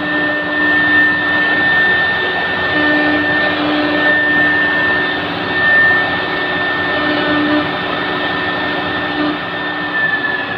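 Three-spindle CNC wood router running, its spindles giving a steady high whine over a loud rushing noise as it engraves a wooden door, with a lower hum that comes and goes. Near the end the whine begins to sink in pitch.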